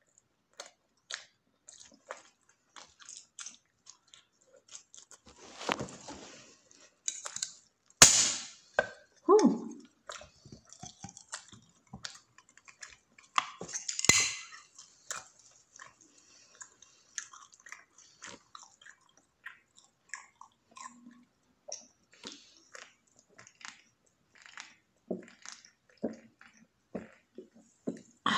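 Close-up chewing and mouth smacking of someone eating a spicy footlong, a run of short wet clicks. Two louder sharp noises stand out, about eight and fourteen seconds in.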